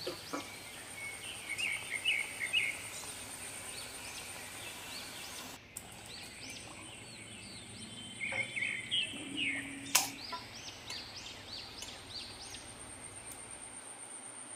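Small birds chirping in repeated short calls, with one sharp metallic clink about ten seconds in as the pan knocks against the steel bowl. A faint steady high whine runs underneath.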